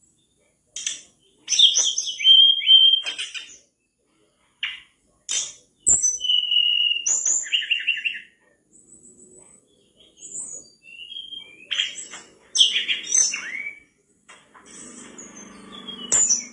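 A tledekan bakau (mangrove blue flycatcher) singing in bursts of high whistled and chirping phrases, with short pauses between them.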